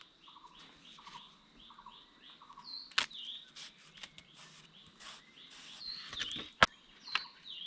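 Forest birds chirping: short falling chirps repeated again and again, with a lower pulsing call under them. Two sharp knocks cut through, about three seconds in and, louder, about six and a half seconds in.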